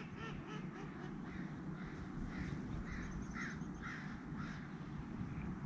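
Birds calling faintly, a run of short repeated calls about two a second, over low wind rumble.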